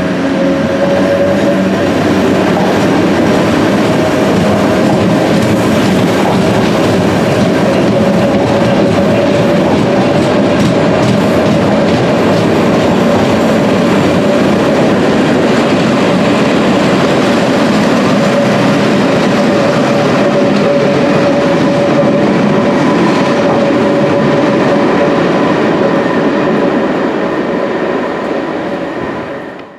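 London Underground battery-locomotive-hauled engineering train of loaded ballast wagons running through a station: a steady rumble and clatter of wheels on the rails with a high whine running through it, fading out near the end.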